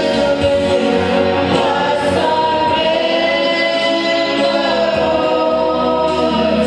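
Choir singing gospel worship music with instrumental backing, sustained and continuous.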